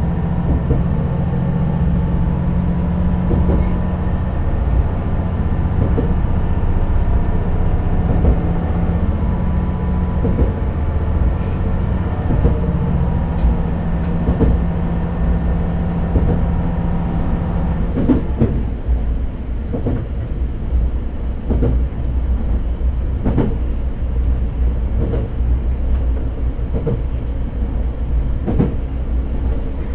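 A diesel railcar running on jointed track, heard from the rear cab. The engine note under power drops away about two-thirds of the way through, leaving rumble and the clack of the wheels over rail joints roughly once a second.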